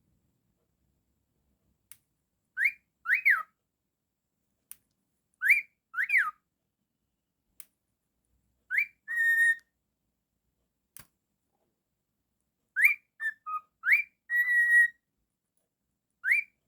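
Cockatiel whistling in short two-note phrases, a rising note followed by a note that rises and falls like a wolf whistle, repeated about five times with a few held, slightly buzzy notes and faint clicks between.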